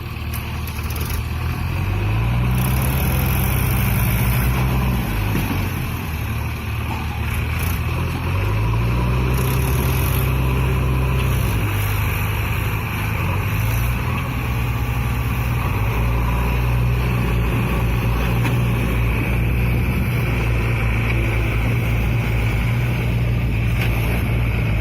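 Powertrac tractor's diesel engine working under heavy load. Its pitch rises and falls twice, about two seconds in and again about nine seconds in, then holds steady.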